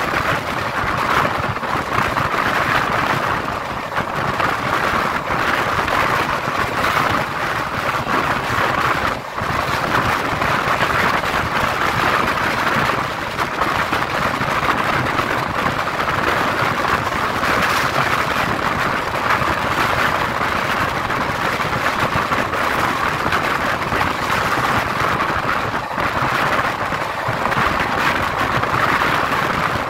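Running noise of the 12337 Shantiniketan Superfast Express heard from on board: a steady, loud rushing of wheels on rail, with a brief dip about nine seconds in.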